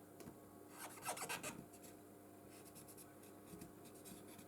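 Faint scratching of a small tool scraping old glue residue and debris off the edge of an iPhone 13's frame, with one louder scrape about a second in.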